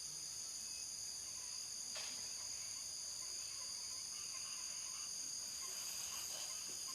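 Crickets chirring steadily in a high, even chorus, with a faint click about two seconds in.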